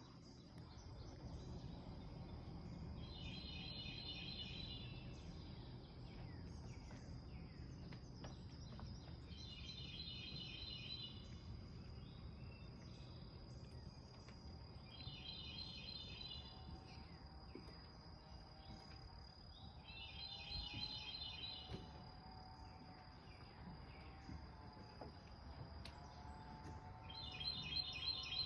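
Outdoor ambience with a bird repeating a short, high trilled song about every six seconds, five times. A faint steady high-pitched hum and low background rumble run underneath.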